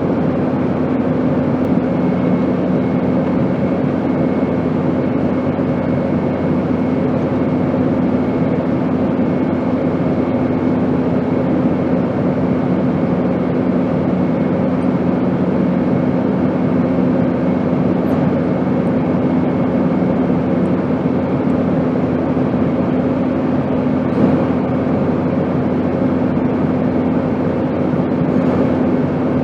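Airplane engine noise: a steady, even rush with a constant low hum. A second, lower hum fades out about two-thirds of the way through.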